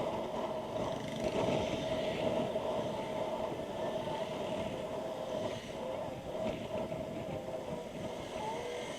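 Motorcycle riding noise picked up through a Freedconn R1 helmet intercom microphone: a steady hum of engine and road with a faint steady tone running through it.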